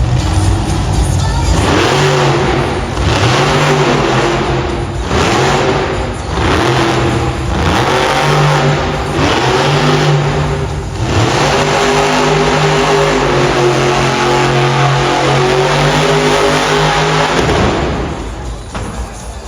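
Monster truck engine revving in repeated surges, each rising and falling in pitch. It then runs on at a steadier pitch and cuts out near the end.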